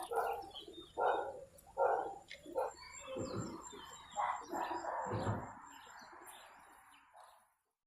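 A bird calling repeatedly in short separate calls, roughly one a second, fading away near the end.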